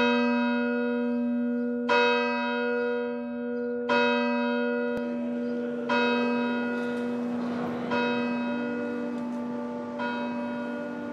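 A single church bell tolling six times at an even pace, about two seconds apart, each stroke ringing on and fading under the next.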